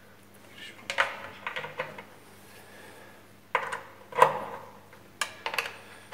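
Irregular sharp clicks and clinks of small metal parts and hand tools being handled at a three-phase motor's terminal box as its star connection is wired. The loudest clink comes a little after four seconds.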